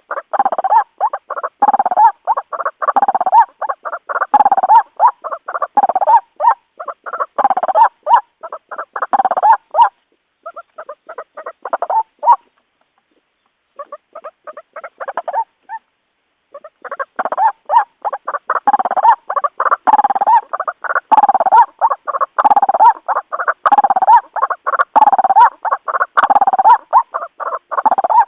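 White-breasted waterhen calls: a dense run of loud repeated 'kuwak-kuwak' calls, thinning to a few softer broken calls for several seconds in the middle before the full calling resumes. It is a lure recording used to call in waterhens.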